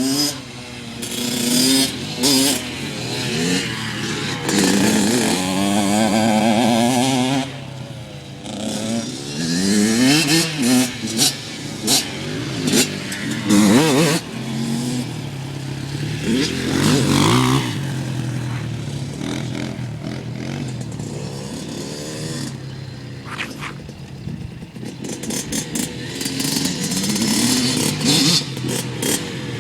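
Small off-road motorcycle engines riding and revving, the pitch climbing again and again through the gears and dropping off between shifts.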